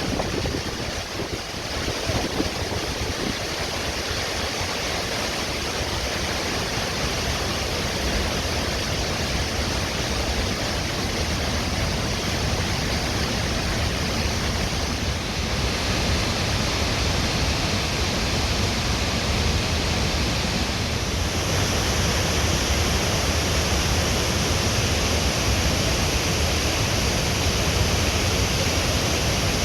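Waterfall rushing in a steady roar of falling water, growing louder in two steps, about halfway and two-thirds of the way through.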